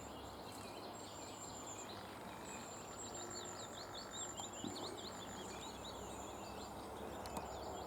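Faint birdsong: very high, thin drawn-out notes recurring, and a quick run of chirping notes from about three to five seconds in.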